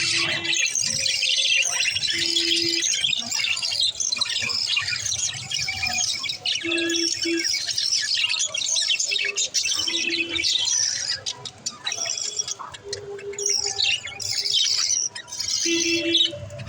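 Pet budgerigars chirping and chattering busily and without pause, many quick high calls overlapping.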